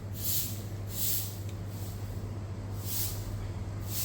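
Rainforest cicadas buzzing in a high, pulsing hiss that swells about once a second, over a steady low hum.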